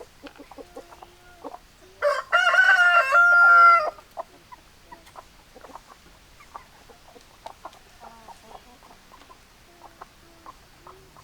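A rooster crows once, about two seconds in: a loud call lasting about two seconds that ends on a long held note. Hens cluck softly before and after it.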